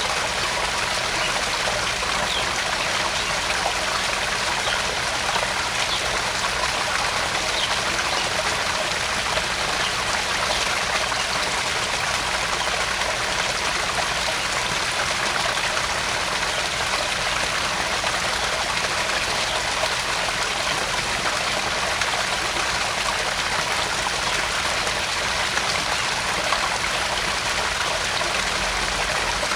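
Small garden pond waterfall splashing and trickling steadily into the pond, an even, continuous rush of water.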